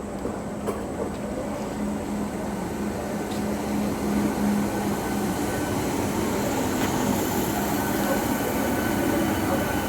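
Electric local train approaching the platform, its running noise growing steadily louder. A steady hum steps up in pitch about halfway through.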